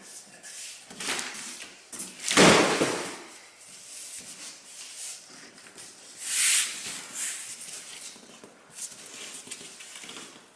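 Unpacking sounds: cardboard and packing material rustling and scraping as parts are handled, with a louder burst of scraping about two and a half seconds in and a shorter, hissy one past the middle.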